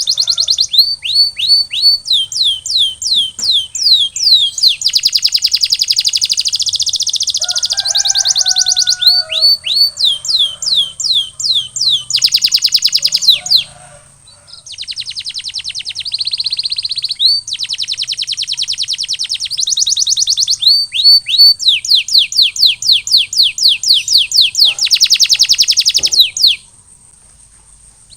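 Male canary singing: runs of quick downward-sweeping whistled notes, several a second, alternating with fast rolling trills. The song breaks off briefly about halfway and again near the end.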